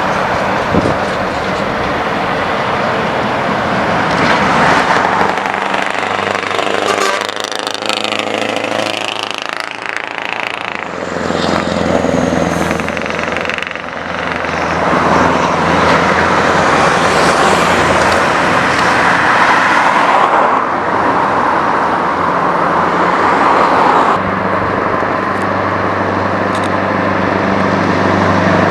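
Scania V8 truck engine with a straight-pipe exhaust running loudly. Its pitch sweeps up and down about a third of the way in, then it holds a steady note.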